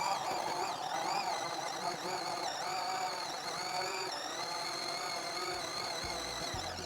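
Electric drill running under load while boring a hole through a wall, its motor pitch wavering up and down as it bites. Background music with a beat comes in near the end.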